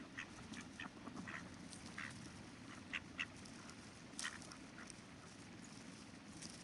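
Ducks quacking in a quick string of short calls through the first four seconds or so, over the steady low rush of river water.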